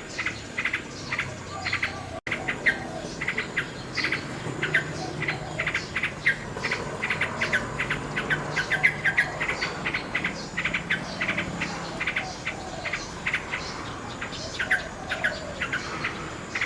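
Nightingale singing: quick runs of short chirps and trills, one after another, over a faint steady high insect-like hum. A split-second break in the sound about two seconds in.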